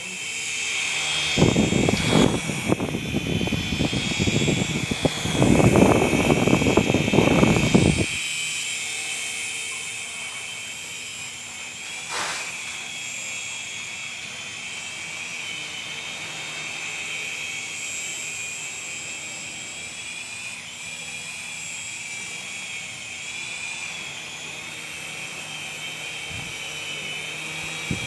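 RC helicopter's motor and rotor whining steadily at a high pitch that wavers slightly. From about a second in until about eight seconds, a loud low rushing noise is laid over the whine.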